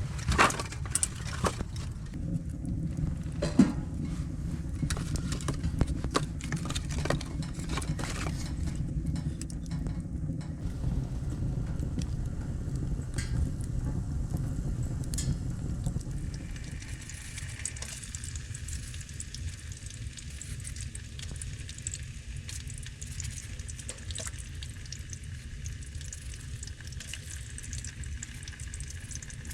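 Food sizzling in a pan over a campfire, with scattered knocks and clicks in the first half. The sizzling hiss comes up clearly after about sixteen seconds and holds steady.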